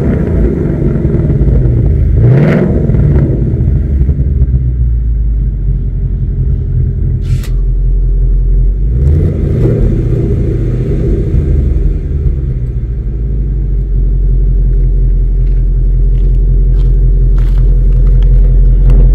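Ford Mustang 6th-gen V8 with a valved H-pipe exhaust idling, blipped twice so that the note rises and falls, about two seconds in and again near the middle, then settling back to a steady idle.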